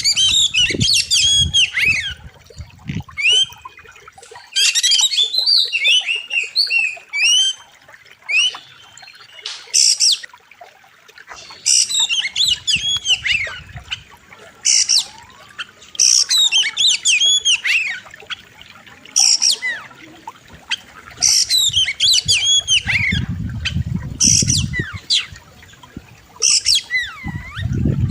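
Oriental magpie-robin singing loud, sharp song phrases: quick runs of whistled glides and harsh notes, each about a second long and repeated with short pauses. A low rumble comes in briefly near the start and again near the end.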